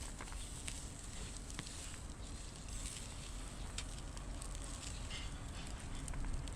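Wood fire crackling in a fire pit, with scattered sharp pops over a low steady rumble.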